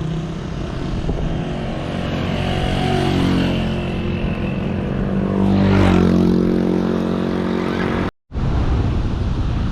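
Motorcycle engine running while riding, with wind noise across the microphone; the engine note shifts in pitch about five to six seconds in, and the sound cuts out for a moment about eight seconds in.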